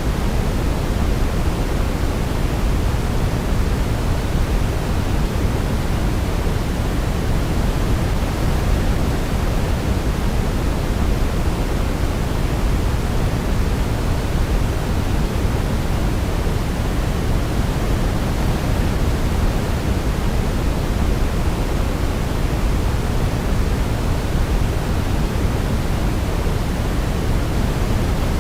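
Steady, unchanging sleep noise of the pink-noise kind, deep and rushing, strongest in the low end, with no melody or events on top.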